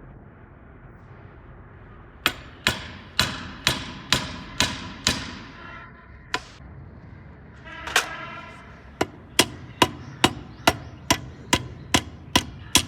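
Hammer blows struck in steady runs of about two a second, with a short pause midway; one blow near the middle rings on briefly.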